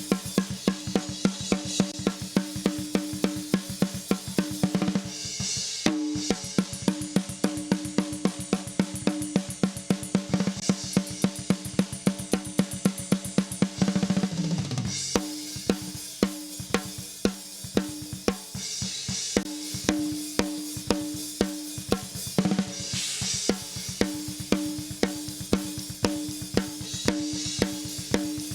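Recorded metal drum kit playing a fast, steady beat of kick and snare with hi-hat. Cymbal crashes come every few seconds, and a short fill falls in pitch about halfway through.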